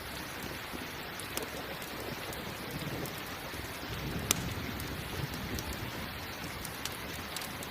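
Steady rain, with a low rumble of thunder swelling in the middle. A few sharp crackles from a campfire pop through, the loudest about four seconds in.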